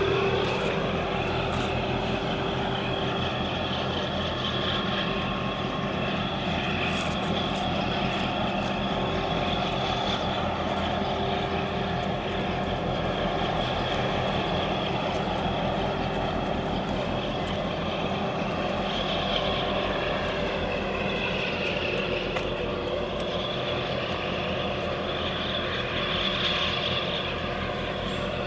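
Steady drone of large marine diesel engines, a mix of several steady hum tones whose pitch shifts slightly about two-thirds of the way through.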